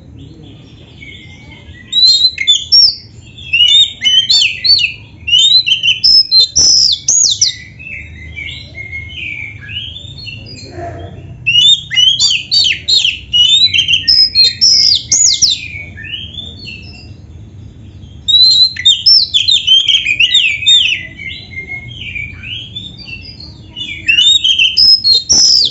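Oriental magpie-robin (kacer) singing in four loud bouts of rapid, varied whistled phrases. Quieter twittering fills the gaps between bouts, over a low steady hum.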